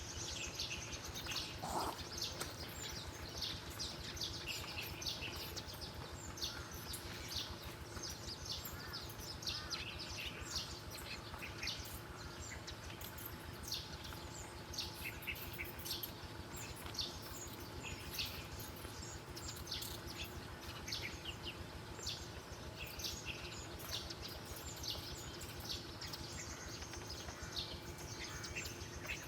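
Small birds chirping: many short, high chirps repeated throughout, over a steady low hiss of outdoor background noise.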